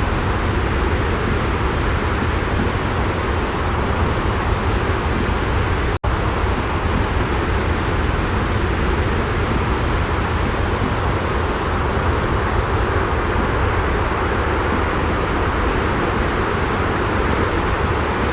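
Steady, unchanging white noise with a deep rumble underneath, dropping out for an instant about six seconds in.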